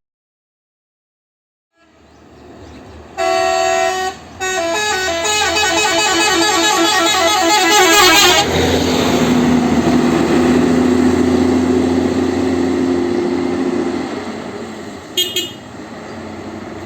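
Musical multi-tone 'basuri' telolet horn on a large road vehicle playing a quick stepping tune, then holding a chord over engine and road noise. A short high toot comes near the end. The first two seconds are silent.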